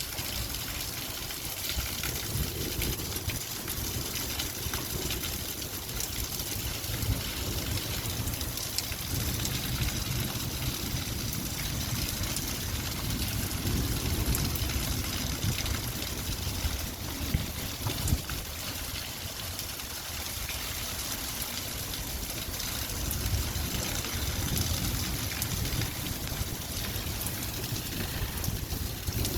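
Light rain falling: a steady hiss made of many small drop ticks, with a low rumble underneath.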